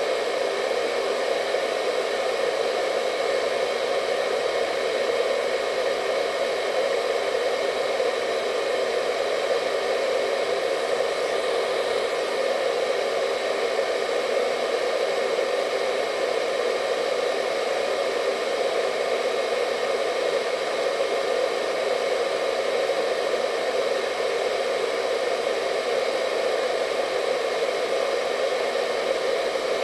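Hair dryer running steadily: an even rush of air and fan noise, strongest fairly low in pitch, with faint whining tones above it.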